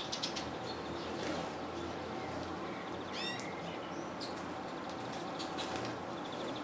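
Small songbirds calling: a few short chirps and one clearer call about three seconds in, over a steady background hiss and low hum, with a few faint clicks.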